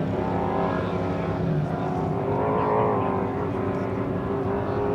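Engine running steadily, its pitch drifting slightly up and down.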